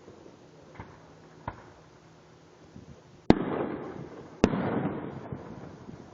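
Fireworks bursting: a couple of faint pops, then two loud booms a little over a second apart, each trailing off in a rumble.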